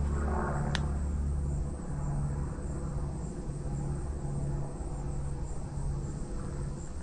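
Low rumble of a passing road vehicle that fades out about two seconds in, over steady high insect chirring.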